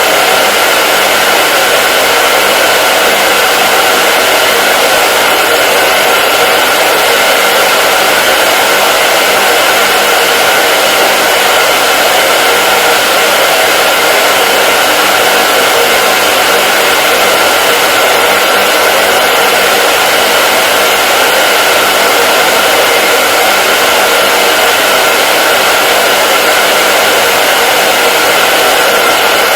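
Electric hair dryer running continuously: a steady, loud rush of fan and airflow noise with a faint motor whine held at one pitch, no changes in speed.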